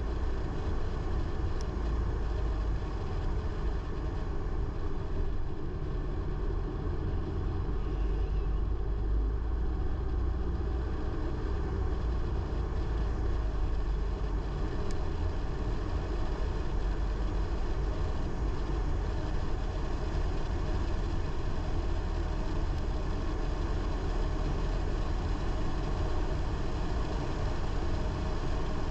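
A car driving at a steady pace: an even low rumble of engine and road noise with no sudden changes.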